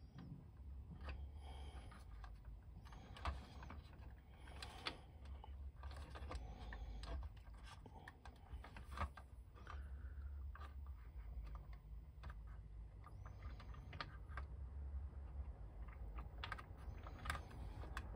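Faint, irregular clicks and light scraping of small plastic toy parts being handled and pressed together as glued strut pieces are joined.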